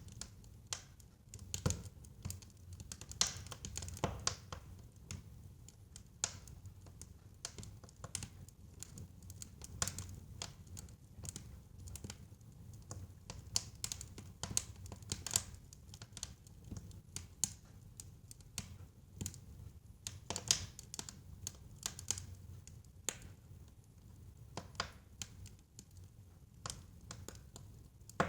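Wood fire crackling in a fireplace: irregular sharp pops and snaps, some louder than others, over a low steady rumble of burning.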